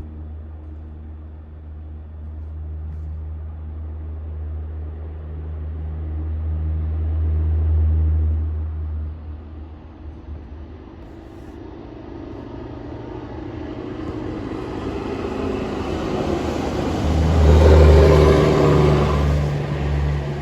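Heavy coal-hauling trucks going by. A deep engine rumble builds and drops away about nine seconds in. Then a second truck approaches with rising engine and tyre noise, loudest near the end.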